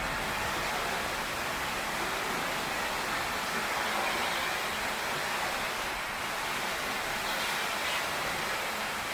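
Heavy rain pouring steadily on a tin roof, a dense, even hiss with no thunder.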